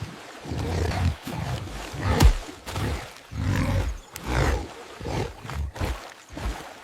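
Deep animal growls and roars coming in repeated bursts, with a sharp hit about two seconds in.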